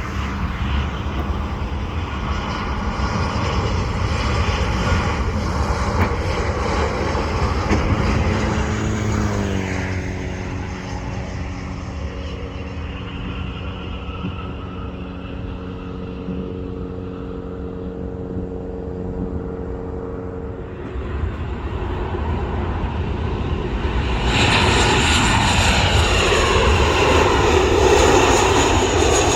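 Jet airliners' turbofan engines heard from the ground as the aircraft pass. The engine tones drop in pitch about ten seconds in as the first aircraft goes by. A different aircraft follows and grows much louder near the end.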